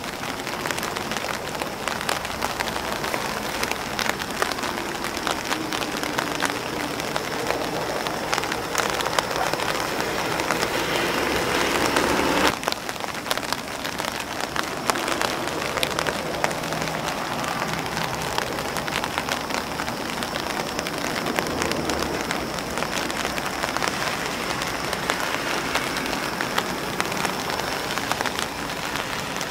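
Rain pattering on an umbrella and on grass leaves: a dense, steady patter of drops. A louder rushing swell builds for several seconds and cuts off sharply about twelve seconds in.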